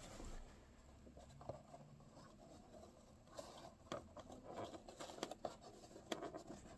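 Faint handling noises of a cracked plastic tray being pushed into a tight cardboard box: light scrapes and small taps, more of them in the second half.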